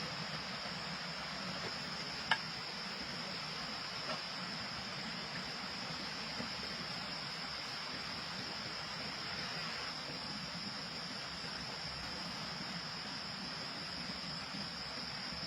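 Steady, high-pitched insect buzzing over an even hiss, with a single sharp click a little over two seconds in.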